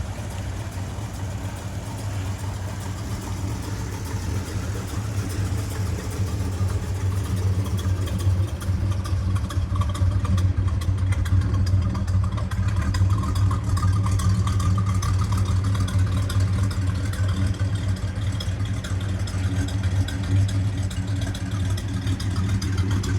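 1967 Buick GS 400's 400-cubic-inch V8 running at a steady idle, getting louder about eight seconds in.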